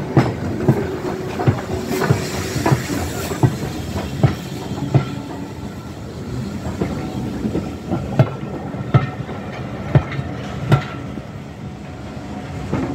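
Passenger train rolling past close by, the wheels of its carriages clattering over rail joints in a series of sharp clacks, about one a second, over a steady rumble.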